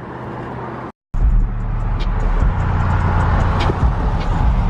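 Car running: a steady low rumble with scattered light clicks, starting after a brief cut about a second in.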